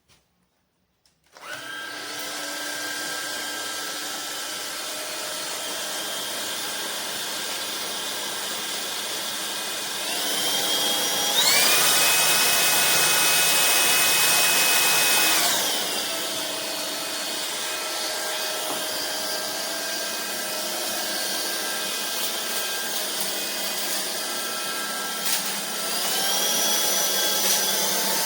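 Vistefly V15s Max cordless stick vacuum's motor switches on about a second in and runs with a steady whine. About ten seconds in it speeds up to a louder, higher-pitched power level, then drops back after a few seconds. It rises again near the end.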